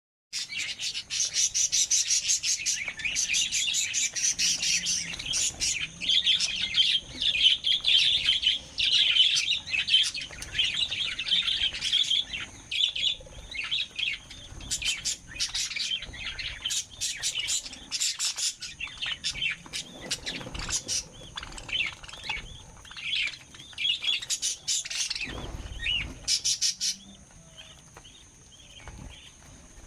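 Lovebirds chattering with rapid, overlapping high chirps, thinning out near the end.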